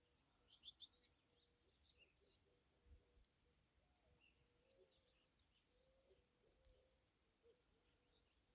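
Near silence with faint, scattered chirps of small songbirds and a faint steady hum.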